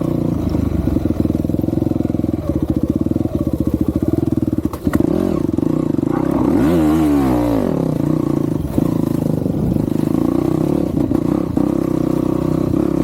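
Dirt bike engine running, with its pitch swinging up and then down about halfway through.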